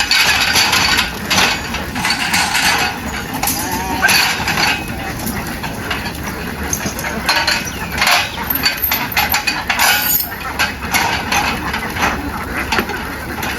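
A large flock of ducks quacking continuously in a dense, clamouring chorus, with scattered knocks and clinks.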